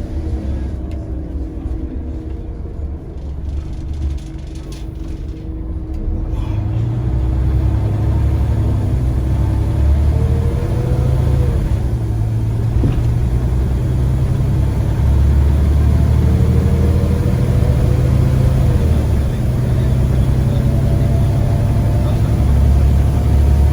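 Scania CN94UA Omnicity single-deck bus's diesel engine running under way, a low rumble that grows louder about a quarter of the way in and then holds strong, with a few faint rising whines above it.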